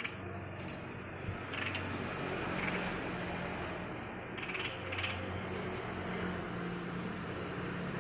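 Chinese bulbul (light-vented bulbul) giving a few short, scratchy calls, with scattered light clicks, over a steady low hum.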